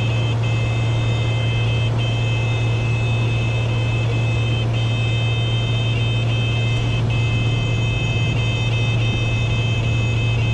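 Cessna 210K's six-cylinder piston engine and propeller droning steadily in cruise flight: a constant low hum with a thin, steady high whine above it.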